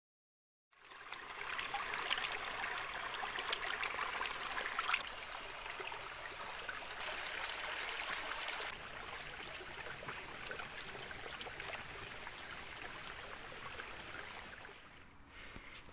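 A steady rush of water with many small sharp ticks and drips over it, starting abruptly after a moment of dead silence and easing a little near the end.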